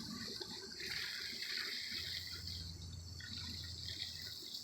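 Garden hose spraying water gently through the fins of a central air conditioner's outdoor condenser coil, with a steady splashing and trickling.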